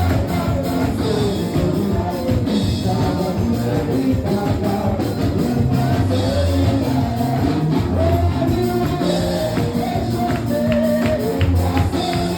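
Upbeat gospel music from a church band, with singing over a steady bass and drum beat.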